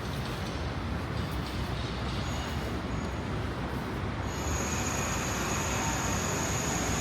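Steady city street noise of vehicle traffic, a continuous rumble and hiss that grows slightly louder about four and a half seconds in, when a faint high whine returns.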